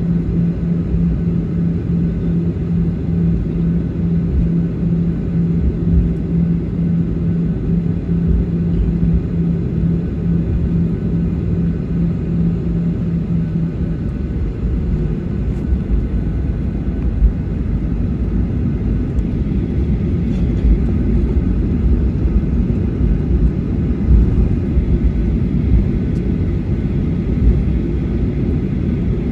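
Boeing 737-800 cabin during taxi: a steady low rumble of the engines at idle and the wheels rolling over the taxiway, with irregular low bumps. A steady low hum runs alongside and stops about halfway through.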